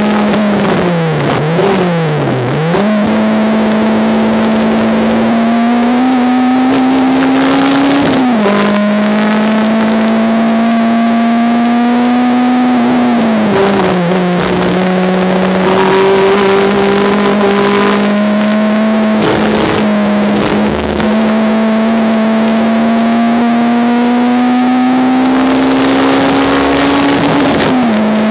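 Honda Civic race car's engine heard onboard under power, its pitch climbing slowly in each gear and dropping at upshifts about eight, thirteen and twenty-eight seconds in. Near the start the revs dip and recover twice. The recording has poor sound quality.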